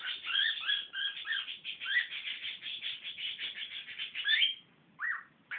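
Cockatiel chattering: a fast, unbroken run of chirps and warbling notes that stops about four and a half seconds in, followed by one short call.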